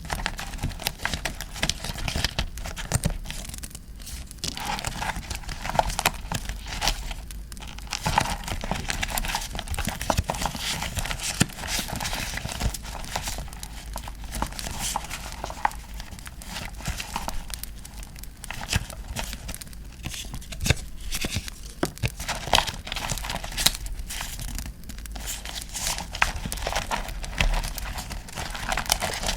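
Paper and postcards being crinkled, handled and torn close to the microphone, with frequent small sharp crackles throughout. A campfire crackling track runs underneath.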